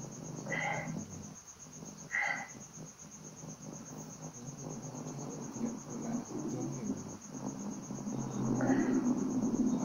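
Crickets chirping in a steady, rapid pulse, over a low murmur, with a few short breathy sounds about half a second in, about two seconds in, and near the end.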